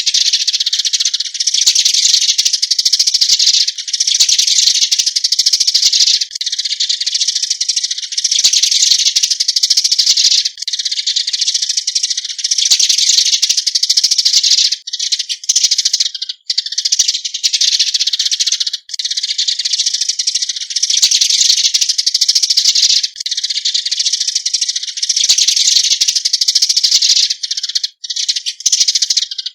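Eurasian tree sparrows giving their flock-gathering call: a dense, high-pitched chirping chatter that runs almost without a break, with brief pauses every couple of seconds.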